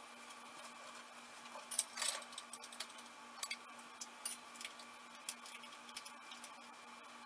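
Light metallic clinks and jingles of small metal parts and tools being handled, a few sharper clicks at irregular intervals, over a faint steady hum.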